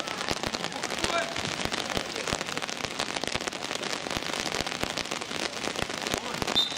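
Outdoor football match sound: distant shouting voices of the young players over a dense, steady crackling patter on the microphone, with a brief high tone near the end.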